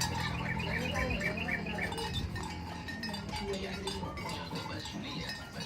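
Lovebird chirping: a quick run of about six short, repeated high chirps in the first two seconds, then scattered calls and clicks.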